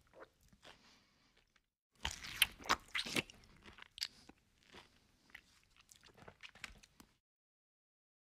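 A person eating duck curry by hand, close-miked: biting and crunching on duck meat and bone, loudest about two to three seconds in, then softer chewing that stops abruptly near the end.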